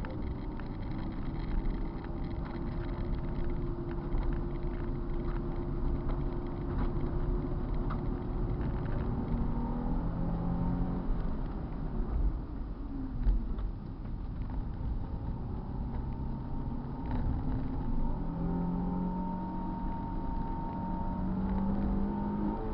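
Car engine running hard on a race circuit, its pitch climbing and dropping with gear changes and lifts off the throttle.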